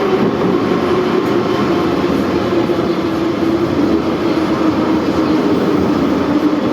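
81-717/714 metro train running: a steady rumble of wheels and motors, with a hum that drifts slowly down in pitch.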